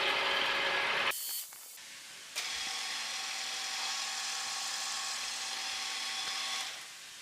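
A drill running steadily while drilling holes in an aluminium block, stopping about a second in. After a short pause it starts again for a second run that stops near the end.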